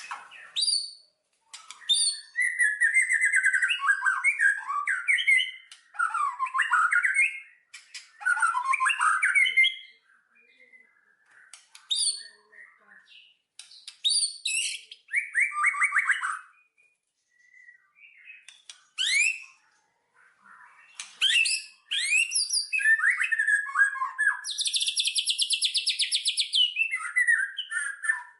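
Songbirds singing in warbling, chirping phrases a second or two long, with short pauses between them. About three quarters of the way through comes a long, rapid, buzzy trill of evenly repeated notes.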